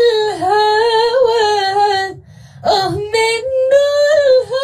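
A woman singing long held notes on a vowel, the pitch wavering and gliding. There are two phrases, with a short break for breath about two seconds in.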